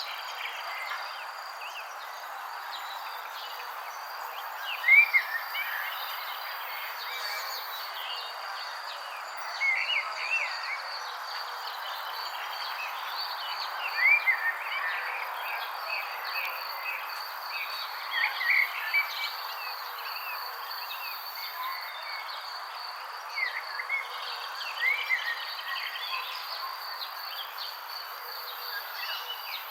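Birds chirping in short clusters of quick rising-and-falling notes every few seconds, over a steady high insect trill and an even hiss.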